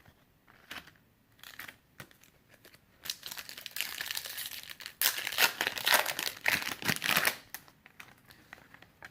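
A few light clicks, then about four seconds of crinkling and tearing as a 2018 Panini Prizm card pack's wrapper is ripped open, loudest near the middle.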